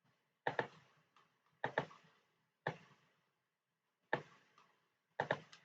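Sharp clicks from computer input on the desk, five times, most of them in quick pairs about a second apart.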